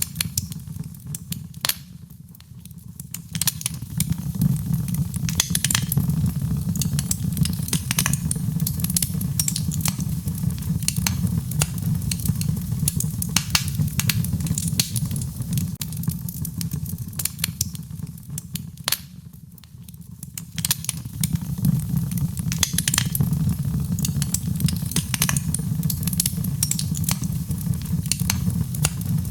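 Fireplace crackling: a wood fire with irregular sharp pops over a steady low rumble. The fire quietens briefly twice, about two seconds in and again near twenty seconds.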